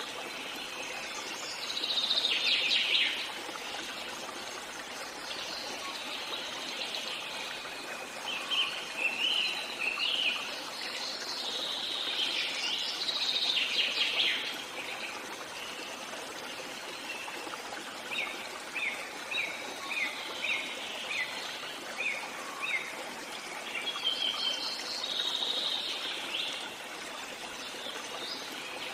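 Birds chirping and calling in scattered bursts, with a run of short repeated chirps, about two a second, past the middle, over a steady background hiss.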